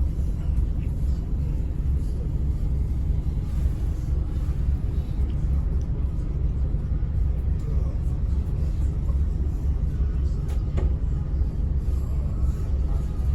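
Scania N270UD OmniCity double-decker bus heard from on board while running: a steady low rumble of engine and road noise inside the saloon, with a few faint knocks and rattles.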